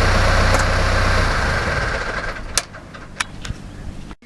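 Farm tractor engine running with a steady low rumble, then dying away about two seconds in, followed by a few sharp clicks and knocks.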